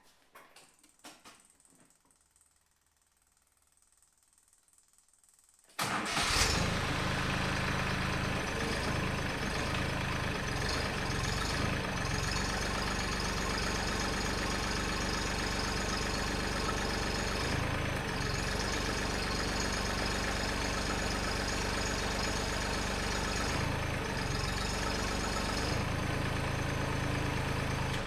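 A Farmtrac 26 compact tractor's diesel engine catches about six seconds in and then runs steadily, with a few small changes in pitch, before dropping away right at the end. It is being run to build pressure in the front loader's hydraulic system.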